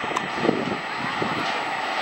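Freight train of tank wagons rolling away along the track: a steady rumble of wheels on rail, with a few knocks in the first second before it settles into an even rolling noise.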